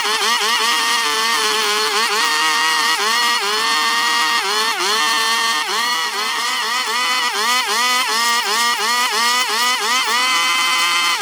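Petrol chainsaw running at high revs, cutting into a Chinese toon log. Its pitch dips and climbs back again and again, roughly every half second, as the chain bites into the wood and frees itself during carving.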